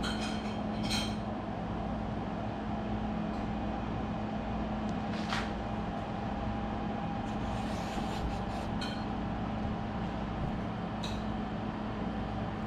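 A steady mechanical hum with a low pitched drone and hiss, with a few short, high chirps or clicks scattered through it.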